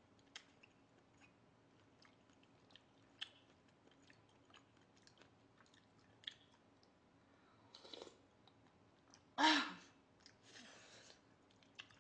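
Close-miked chewing, with scattered wet mouth clicks, as someone eats spoonfuls of rice with herbal duck stew. A couple of breaths, and one louder short mouth sound with a falling pitch about nine and a half seconds in.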